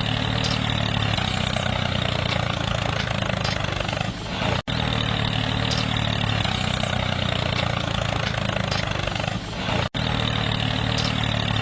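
Small motor of a miniature homemade tractor running steadily, with the sound breaking off for an instant twice.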